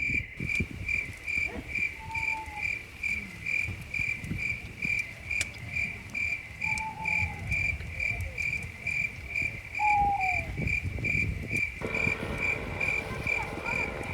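Cricket chirping steadily, about three even chirps a second, over a low uneven rumble, with a few short falling calls now and then.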